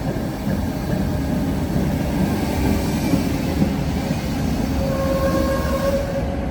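Tatra ČKD tram running on rails: a steady rumble of wheels and running gear, with a sustained high tone coming in about five seconds in.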